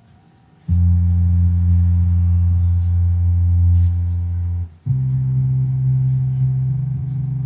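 A 12-inch active speaker plays two long, loud, steady low bass tones with a short break between them. The second tone is higher than the first.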